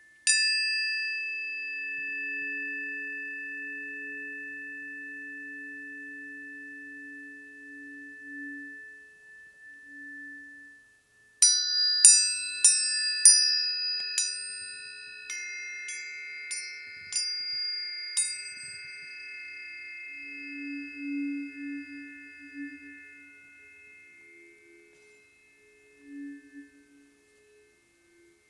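Planetary tuning forks struck and left to ring. One strike just after the start rings out long and slowly fades. About halfway through comes a run of about eight strikes in quick succession, whose clear high tones overlap and die away gradually, with a faint lower tone swelling and fading beneath.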